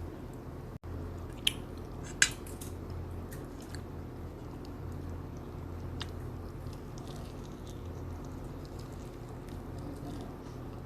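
A person chewing and biting boiled beef up close, with wet, squishy mouth sounds. There are two sharp clicks about a second and a half and two seconds in, over a steady low hum.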